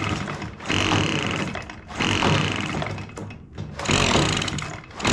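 Echo PB-265L backpack blower's small two-stroke engine pulled over repeatedly with its recoil starter: about four rasping pulls, each roughly a second long, without the engine catching. It makes a strange noise while cranking, which the mechanic takes for a sign of a sheared flywheel key.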